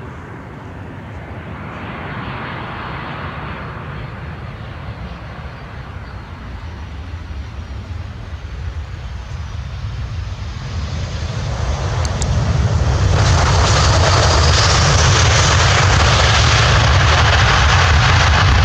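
Airplane engines growing gradually louder, then jumping to a loud, steady roar about thirteen seconds in.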